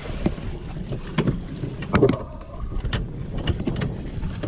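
Steady wind and water rushing around a small fishing boat, with about ten irregular knocks and taps, the loudest about two seconds in.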